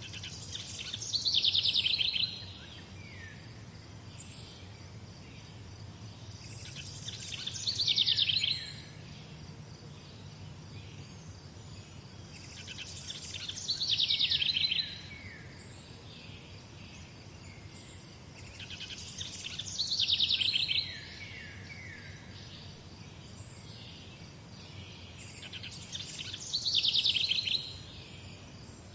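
A songbird repeating the same song phrase five times, about every six seconds: each phrase is a quick, high run of notes falling in pitch and lasting about two seconds. A faint steady low hum lies underneath.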